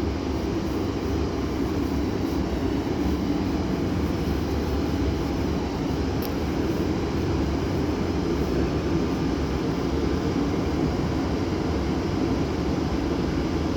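A train running through the station with a steady low rumble that holds evenly throughout.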